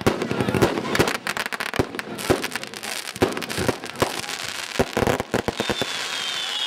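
Fireworks display: a rapid run of bangs and crackling. Near the end a whistling firework starts, a high whistle slowly falling in pitch.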